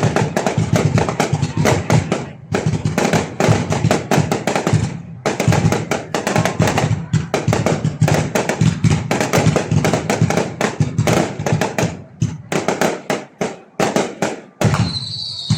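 Fireworks going off in a rapid, dense string of sharp bangs and crackles, with a few short lulls.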